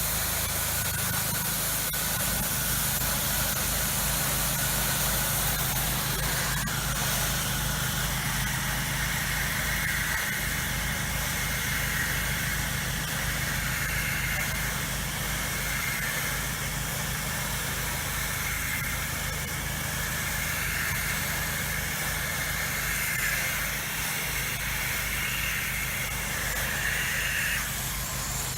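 Low-pressure soft-wash spray hissing as soap solution is sprayed onto house siding, over the steady hum of the washing rig's engine running. The spray hiss grows stronger about eight seconds in and cuts off shortly before the end, while the engine runs on.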